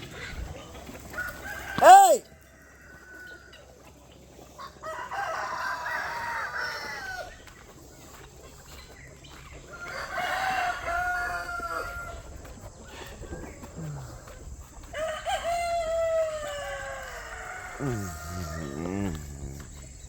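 Roosters crowing: three crows of about two seconds each, roughly five seconds apart, each falling in pitch at the end. A lower, wavering call follows near the end.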